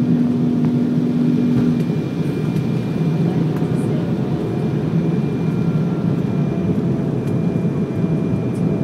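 Steady rumble of an airliner on its landing approach: engine and airflow noise, with a steady hum that stops about two seconds in.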